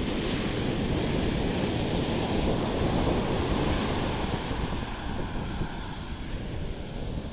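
Sea surf washing up the beach, with wind buffeting the microphone. The wash swells over the first few seconds and eases off after about five seconds.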